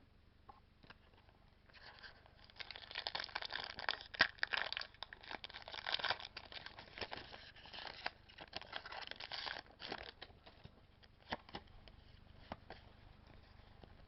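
Foil Pokémon card booster pack being torn open and crinkled by hand: a dense run of crackling starting about two seconds in, thinning to a few scattered crinkles and clicks near the end.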